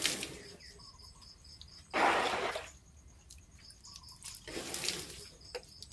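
Water splashing or pouring in short bursts, about every two seconds, the second the loudest, with a steady series of high chirps in the background.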